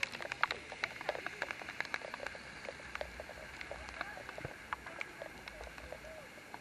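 Rain falling: many irregular drop taps over a steady hiss.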